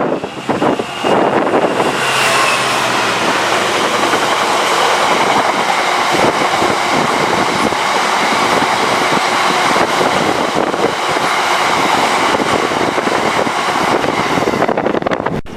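A train passing close by at speed, a loud steady rush of wheels on rail that builds about a second in and falls away near the end.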